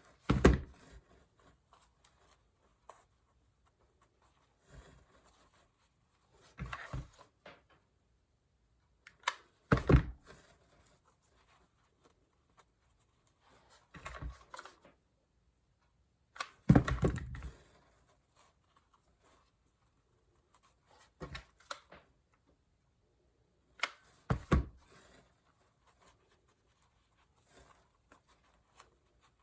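Knocks and rustles of craft materials being handled, in separate bursts every few seconds with quiet between.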